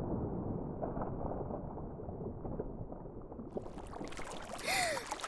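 Underwater sound effect: muffled bubbling and gurgling as if heard from below the surface, then about three and a half seconds in the sound opens up into surfacing and splashing water.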